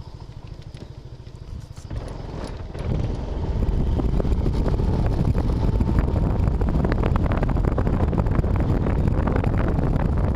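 Car driving in heavy rain, heard from inside the cabin on a dashcam: a steady rumble of the car and wet road with rain pattering on it, getting much louder about three seconds in.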